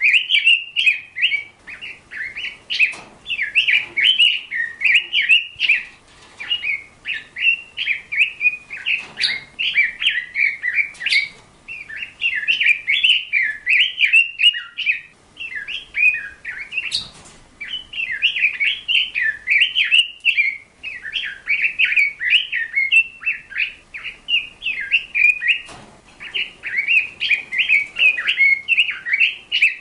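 A bird chirping and chattering in a dense, near-continuous stream of short high chirps, broken by a few brief pauses.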